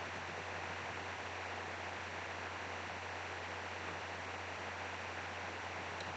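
Steady, even hiss over a constant low hum, unchanging throughout.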